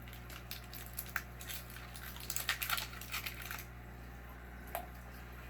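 Steady low hum of aquarium equipment, with a cluster of small sharp clicks and crackles from about one to three and a half seconds in and a single click near the end.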